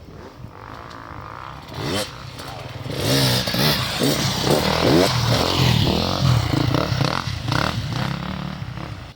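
Enduro motorcycle engine revving hard in repeated bursts as the bike rides through. It grows louder about three seconds in and fades near the end.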